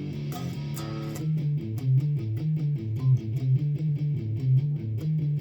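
Guitar playing a riff: a few ringing chords, then from about a second in a fast, even run of short picked low notes, palm-muted with the heel of the hand resting on the strings to deaden them.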